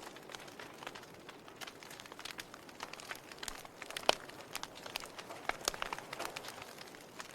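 Log fire crackling: a steady faint hiss with irregular sharp pops and snaps from the burning wood, the loudest pop about four seconds in.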